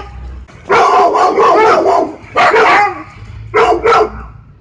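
A dog barking loudly: a quick run of barks about a second in, then a single bark, then two short barks near the end.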